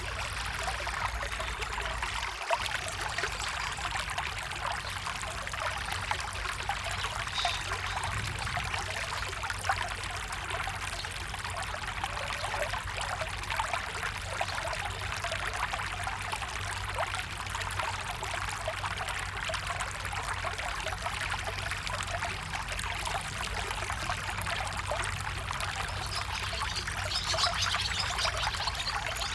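A small stream trickling and babbling steadily over rocks.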